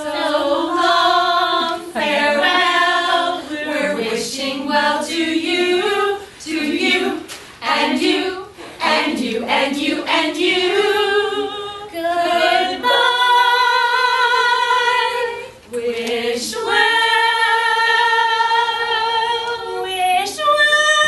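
A group of women singing together without accompaniment, with two long held notes in the second half.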